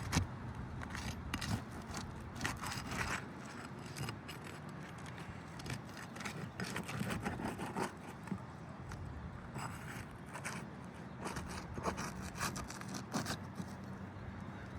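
Roof shingles being worked loose by hand: irregular scraping and clicking strokes, some in quick runs, over a steady low hum.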